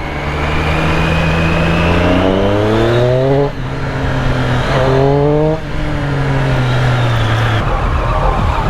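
A motor vehicle engine accelerating: its pitch climbs for a second and a half, drops, and climbs again, then settles to a steady note that stops about seven and a half seconds in.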